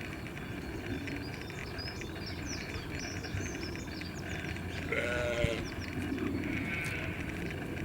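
A farm animal bleating: one short pitched bleat about five seconds in, then a fainter, higher one a second later, over scattered small bird chirps and steady outdoor background noise.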